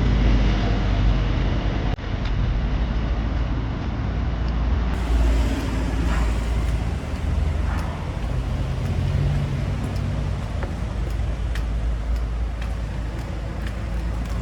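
Steady road traffic noise with a deep engine and tyre rumble.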